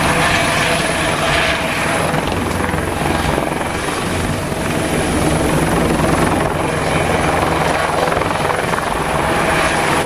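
Light helicopter with a shrouded fenestron tail rotor flying low: a steady rotor beat under a constant engine whine. The sound stops abruptly at the end.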